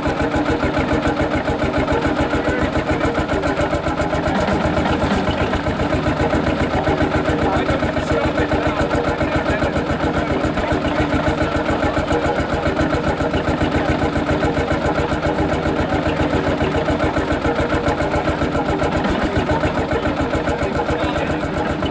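HSCS G-35 single-cylinder two-stroke hot bulb semi-diesel tractor engine running steadily with an even, rapid beat of firing strokes.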